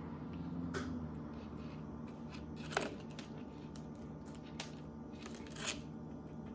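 Household refrigerator humming steadily with a low, many-toned drone, the noise its owner says it makes sometimes. A few light taps come over it, about a second in, near the middle and near the end.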